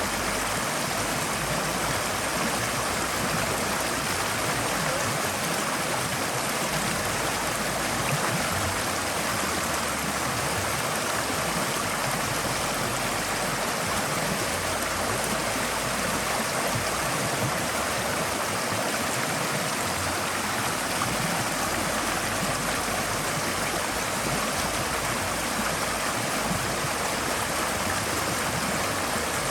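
Forest stream water flowing and babbling over rocks, a steady rushing sound.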